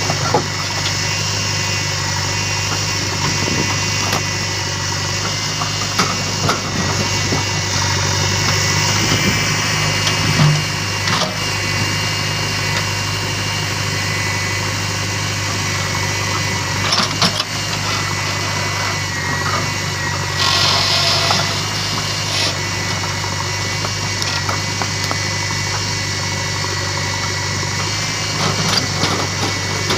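Diesel engine running steadily at a low, even speed, with a few short knocks and a brief hiss over it.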